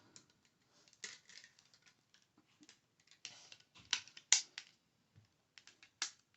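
Quiet, irregular taps, clicks and scratchy rustles of small items being tapped and handled close to the microphone, with one sharper click about four seconds in.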